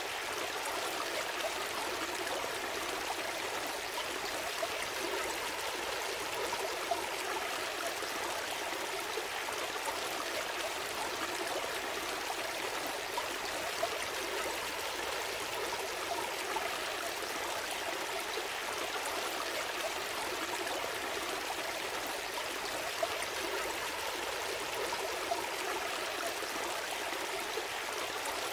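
A gentle stream flowing steadily over stones, with small gurgles and trickles.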